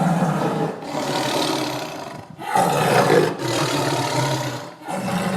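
Tiger roaring repeatedly: rough roars of about two seconds each, separated by brief pauses, with a fresh roar starting near the end.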